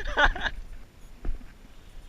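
A voice finishes speaking in the first half second, then a faint low rumble with a single short knock a little past a second in.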